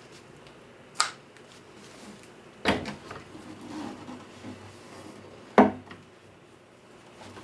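Tools and wooden parts being handled at a workbench: three sharp knocks and clacks, the loudest about three-quarters of the way through, with faint scraping between them.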